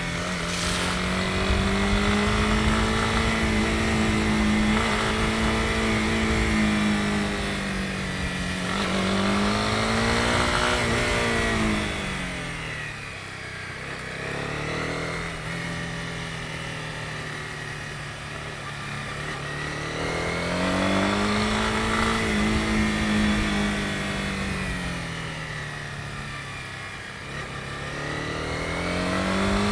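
Honda CB250R's single-cylinder engine running under way, its revs rising and falling in slow waves as the throttle opens and closes. The engine drops to a quieter, lower note about twelve seconds in and again near the end, then picks up again.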